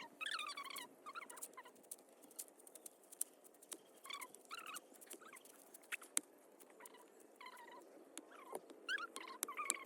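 Chickens calling in short chirping bursts, a few notes at a time, over scattered sharp clicks and taps.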